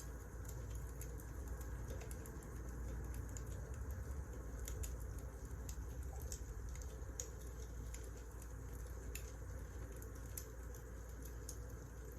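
Wood fire burning: a steady low rumble of flames with irregular small crackles and pops from the burning logs.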